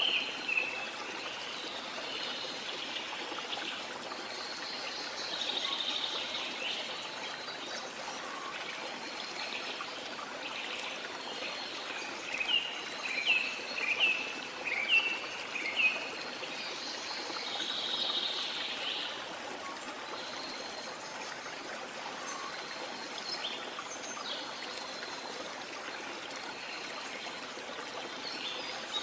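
Steady rush of a waterfall with tropical birds calling over it; about halfway through, one bird gives a run of about six short, sharp notes roughly half a second apart.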